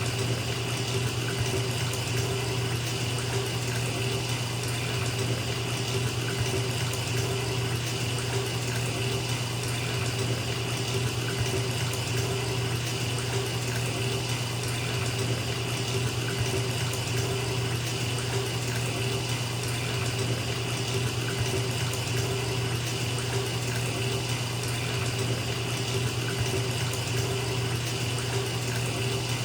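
Bathtub tap running steadily into a filling tub, an even unbroken rush of water with a low steady rumble underneath.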